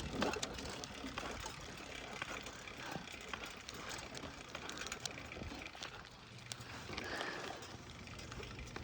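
Bicycle riding: faint steady tyre noise on pavement with scattered light clicks and rattles from the bike.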